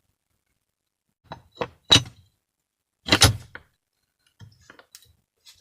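Metal parts of a moped's electric starter motor clicking and knocking together as it is fitted back together: a few sharp clicks about a second and a half in, a louder clattering knock about three seconds in, then faint ticks.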